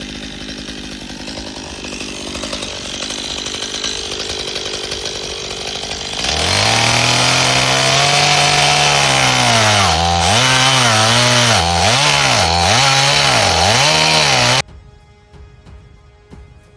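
Chainsaw cutting a slice off the end of a laurel log: it runs at lower speed, then opens up loud about six seconds in, its pitch sagging and recovering several times as the chain bites. It cuts off suddenly near the end.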